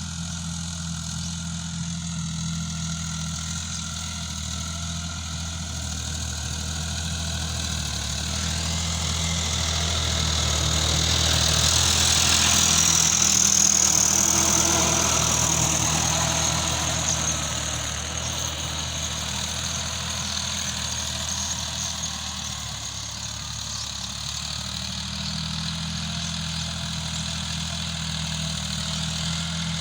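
Sonalika RX 50 tractor's diesel engine idling steadily. About a third of the way in, a louder rushing swell builds and fades over several seconds.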